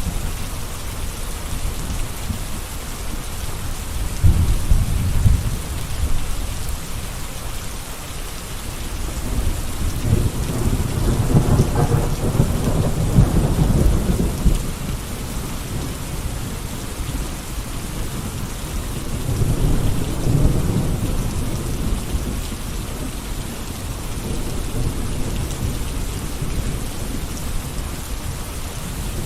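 Steady rain falling, a continuous hiss. Under it, deep rumbles swell and fade three times: briefly about four seconds in, longest and loudest from about ten to fifteen seconds in, and more weakly around twenty seconds in.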